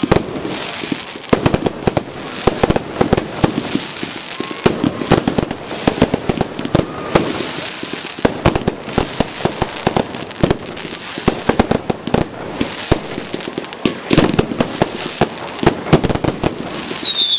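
A fireworks display: a dense, continuous barrage of sharp cracks and bangs in quick succession, with a number of louder reports standing out.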